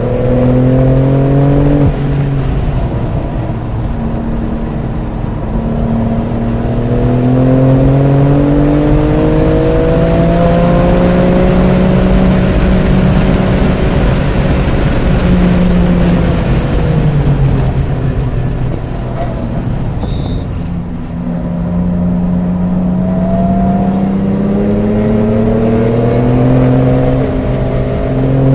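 BMW F80 M3 Competition's twin-turbo inline-six pulling hard and easing off: the engine pitch climbs, drops sharply at a gear change about two seconds in, rises again through a long pull, winds down over several seconds, then climbs again near the end.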